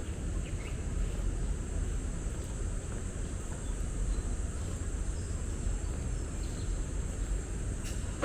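Outdoor city-park ambience: a steady low rumble of urban traffic under a continuous high insect trill, with a few faint bird chirps and a single sharp click near the end.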